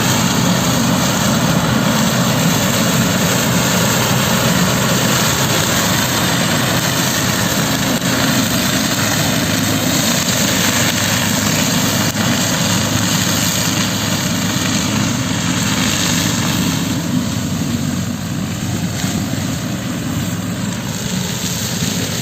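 Sugarcane trash mulcher running steadily: a continuous engine drone with a dense rushing noise over it, easing slightly about two-thirds of the way through.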